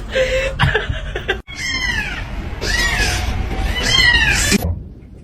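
Domestic cat meowing repeatedly: three long, arching meows about a second apart in the second half, after a few shorter calls.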